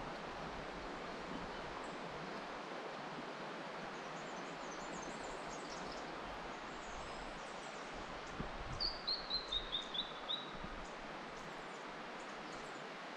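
A bird calls a quick run of about seven short, high notes, each a little lower than the one before, a little over halfway through, with fainter high chirps earlier. Under it runs a steady rushing hiss.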